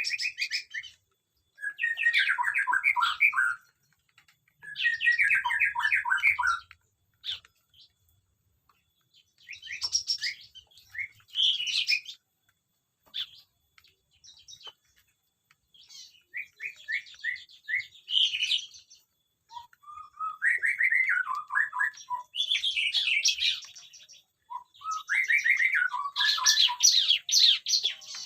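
Small aviary birds singing and twittering: phrases of quick chirping notes, each a second or two long, repeated every few seconds, several of them stepping down in pitch.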